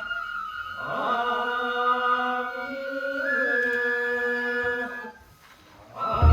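Voices chanting a nenbutsu kenbai song in long drawn-out notes, the melody stepping up partway through. The chant pauses briefly near the end, and a low drum beat lands just as it stops.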